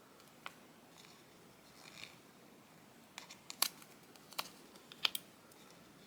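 Scissors cutting paper: a series of separate snips, the sharpest ones between about three and a half and five seconds in.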